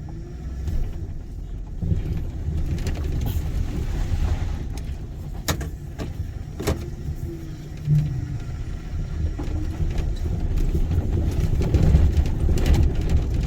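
Car rumbling over a rough dirt road while turning around, with a few sharp knocks and rattles from the bumps; it grows louder near the end.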